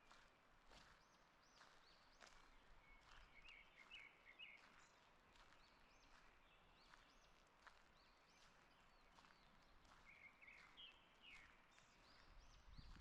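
Faint birdsong: several birds singing short repeated high, arched notes, with two bursts of chattering trills a few seconds in and again near the end, over soft, regular footsteps of someone walking.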